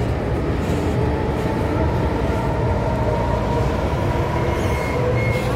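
MTR M-Train electric multiple unit running on the Island Line: a steady rumble of wheels on rail, with faint whining tones from the traction equipment.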